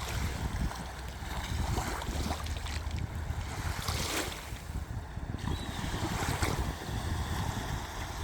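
Wind buffeting the microphone with a deep uneven rumble, over the steady wash of waves on a shore that swells and eases every few seconds.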